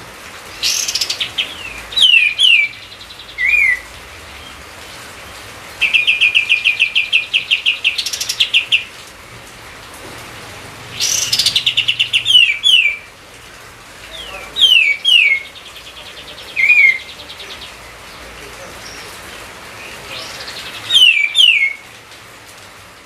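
A songbird singing in repeated phrases: fast rattling trills of rapid high notes alternating with pairs of quick down-slurred whistles, over a steady background hiss.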